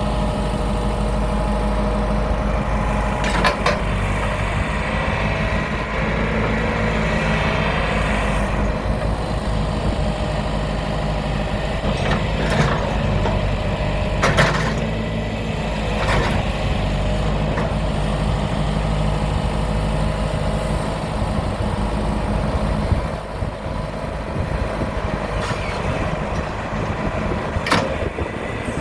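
Diesel engine of a John Deere 410-D loader backhoe running steadily, with a handful of sharp knocks scattered through.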